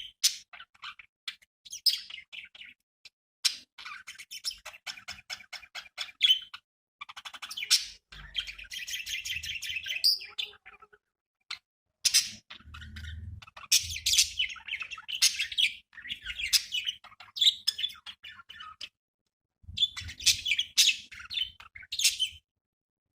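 Budgerigars chirping and warbling in bursts, a fast clicky chatter mixed with high twittering, with a few short silent breaks.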